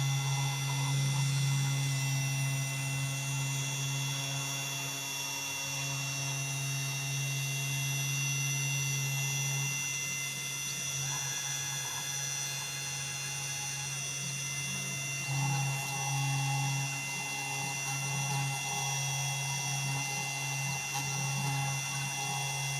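Desktop CNC 3018 router running while milling bakelite: a steady motor hum with several high, steady whining tones above it. The tones shift slightly about ten seconds in and again about fifteen seconds in.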